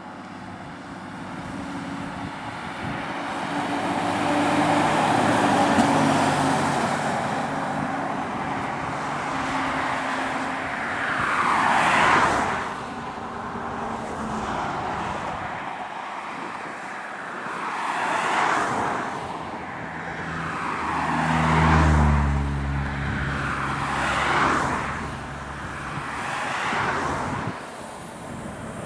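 Heavy trucks of 500+ hp pulling hard up a steep road climb under load, passing one after another with tyre and engine noise swelling and fading about five times. A deep truck engine is loudest a little over two thirds of the way through.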